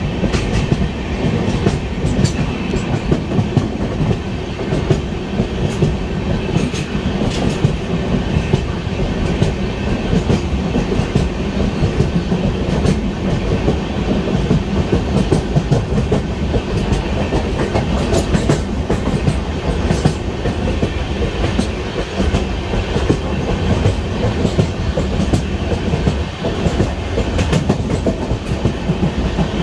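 Express passenger train heard from on board, running along the track: a steady rumble of wheels on rails, with irregular clicks as the wheels pass over rail joints.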